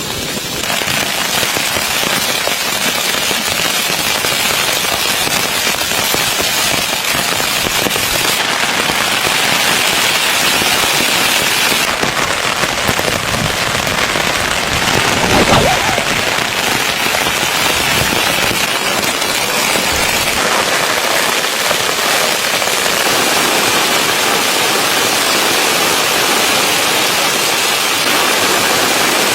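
Steady, dense rain pattering on tent fabric, heard from inside the tent, with a brief louder surge about halfway through.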